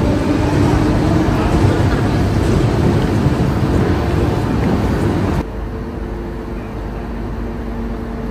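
Busy railway station hall: the noise of a train moving on a far track mixed with crowd hubbub. About five seconds in, the sound cuts to a quieter, steady multi-tone hum from a DSB IC3 diesel train pulling into the platform.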